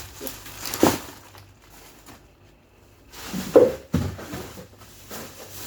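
Frozen meat packages in plastic bags being handled while a freezer is emptied: a few hard knocks and thuds with plastic rustling, the loudest about a second in and again around three and a half to four seconds in.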